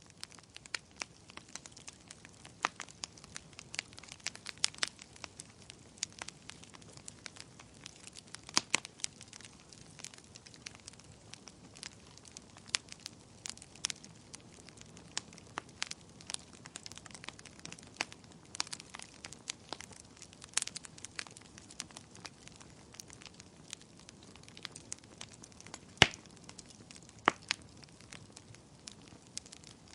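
Campfire crackling: irregular sharp pops and snaps of burning wood over a faint steady hiss, with one louder pop near the end.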